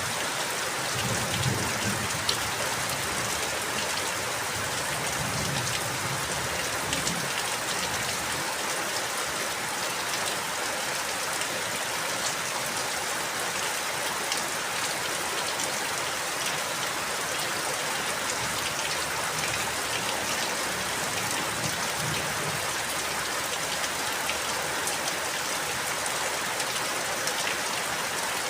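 Steady rain falling, an even hiss with individual drops ticking on a surface.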